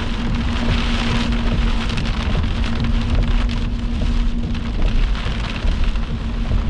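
Heavy rain falling on a moving vehicle, heard from inside the cabin as a dense, steady patter, with a steady low hum underneath.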